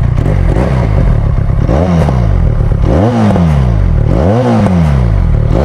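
Benelli Leoncino 500 parallel-twin engine with a changed exhaust pipe, revved in repeated throttle blips while standing: the pitch rises and falls about four or five times, one about every second. It has a deep, bassy note.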